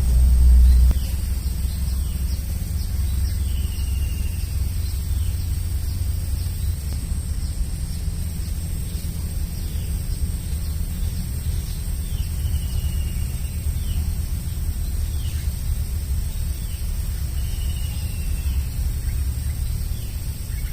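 Bird chirping: short, falling chirps repeated every few seconds, over a steady low rumble and a thin, steady high-pitched tone.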